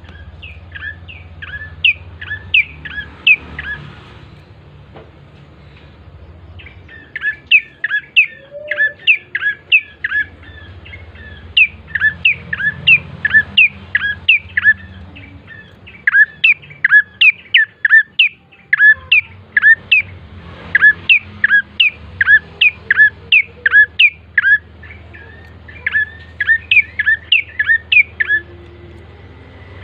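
Ashy tailorbird (prenjak coki) singing a fast, loud series of sharp repeated notes, about four or five a second. The notes come in bouts of a few seconds broken by short pauses.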